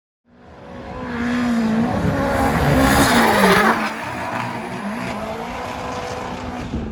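Drift car on track, its engine revving with the pitch rising and falling, over tyre squeal. The sound fades in from silence, is loudest about three seconds in, then drops to a steadier level.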